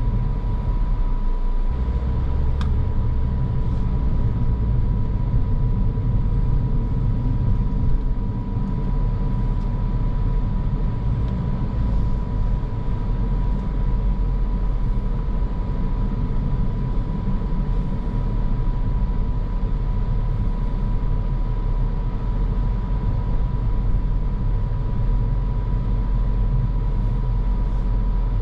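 Driving noise from a moving car: a steady low rumble of tyres and engine, with a thin steady high tone held above it.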